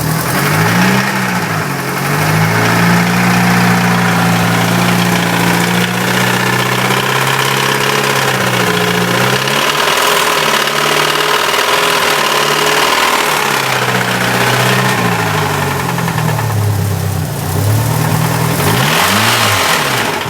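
Mitsubishi Lancer Evo VI's 4G63 turbo four-cylinder engine running with a knock, blipped and held at raised revs, dropping back to idle about halfway and revved up again near the end. The owner suspects main bearing failure.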